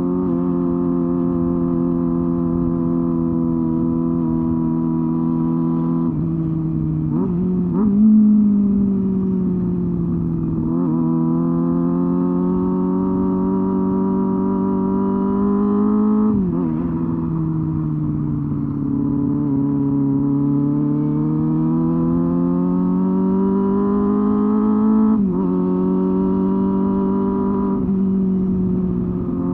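Honda Hornet 250's inline-four engine and exhaust under way. The note holds steady at first, then twice climbs slowly as the bike accelerates and drops sharply at a gear change.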